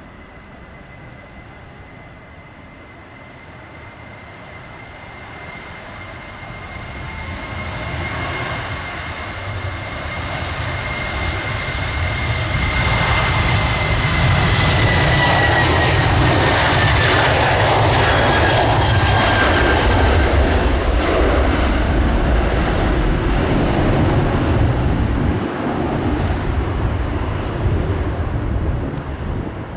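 Boeing 737-800 jet engines at takeoff power passing by, growing steadily louder, with a high whine that drops in pitch as the aircraft goes past, then easing off near the end.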